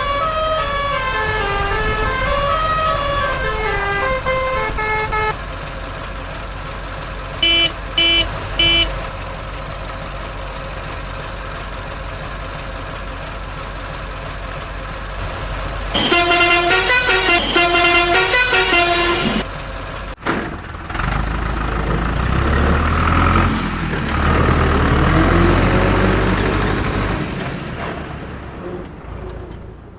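Cartoon truck sound effects over a steady engine drone. A horn melody rises and falls for the first few seconds, three short horn toots come near 8 s, and rapid honking follows from about 16 to 19 s. After that a louder rumbling noise rises, then fades away near the end.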